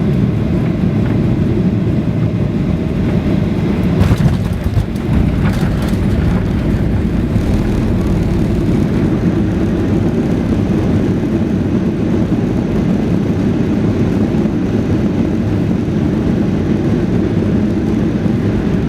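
Boeing 737-800 cabin noise during the landing: a steady, loud, low rumble of the CFM56 jet engines and rushing air. A few short knocks and rattles come about four to six seconds in.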